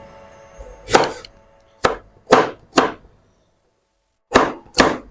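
Kitchen knife cutting potatoes on a chopping board: six sharp chops in two bunches, with a short pause between them.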